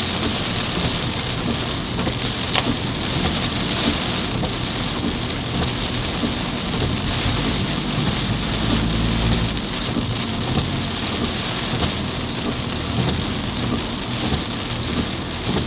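Heavy rain falling steadily on a moving car during a sudden downpour, with a few sharp ticks of drops early on and a low rumble swelling for a couple of seconds past the middle.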